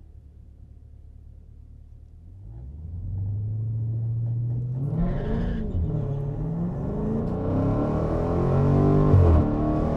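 Dodge Challenger Scat Pack's 392 HEMI V8, heard from inside the cabin, idling low before coming up on the throttle about three seconds in. It then accelerates hard down the drag strip, the engine note climbing and dropping back at each gear change.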